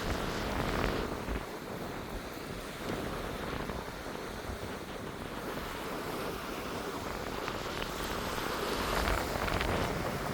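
Wind buffeting the microphone, a steady rushing with low rumbling gusts, over surf washing on the beach; the wind swells a little near the end.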